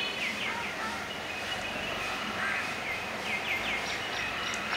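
Birds chirping in short, quickly falling notes, in runs of two or three, over a steady background hiss.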